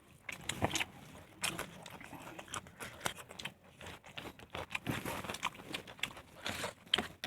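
Close-up eating sounds: a person biting and chewing desi chicken curry, with irregular wet smacks and clicks.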